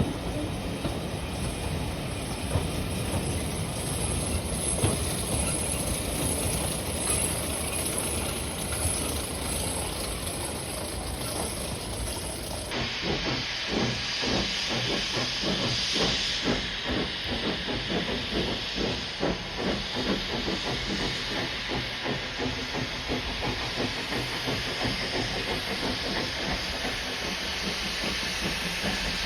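Steam locomotive hissing steam. About halfway through the sound changes abruptly to a brighter hiss with a fast, regular beat.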